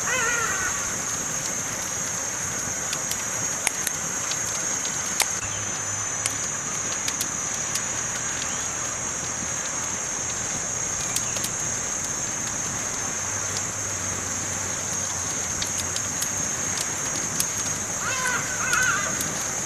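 Campfire crackling: scattered sharp pops over a steady hiss, with a constant high-pitched tone above it. A short pitched call comes near the end.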